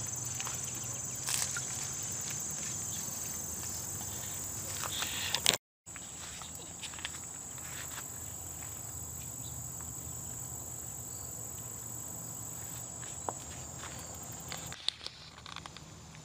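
Steady high-pitched insect trilling, typical of crickets. It cuts out briefly about five and a half seconds in and stops near the end, with a few faint clicks and rustles over it.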